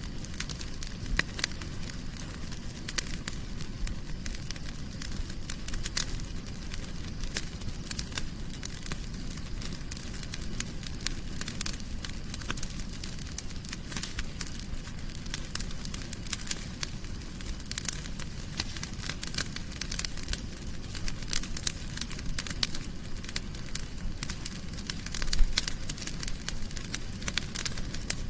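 Wood fire crackling in a fireplace: a steady low rumble of flame with constant small sharp pops and snaps, and a slightly louder pop about 25 seconds in.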